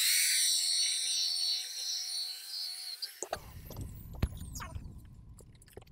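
Electric polishing machine running steadily with a whine and a hiss as it works compound over a lacquered panel, switched off about three seconds in. After it, scattered knocks and a low rumble of handling noise.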